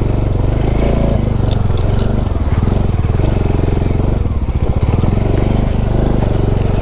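Motorcycle engine running at low revs with a steady, even pulsing as the bike is ridden slowly off-road.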